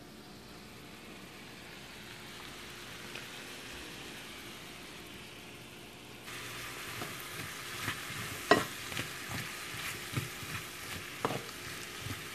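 Onions and mushrooms sizzling in a nonstick frying pan, faint at first and louder from about halfway. In the second half a wooden spoon stirs them, knocking and scraping against the pan several times.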